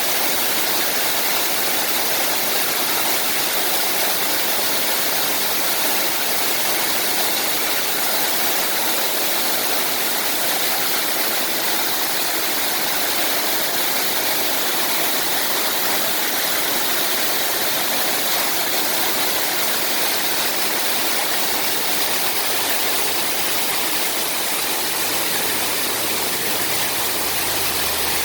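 Waterfall cascading over rock: a steady, unbroken rush of falling water. A faint low hum joins near the end.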